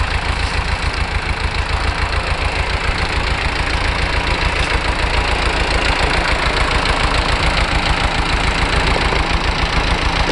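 Long 900 tractor's diesel engine running steadily with an even, rapid low pulsing. The engine has a newly installed injector pump that still won't let it reach full RPM.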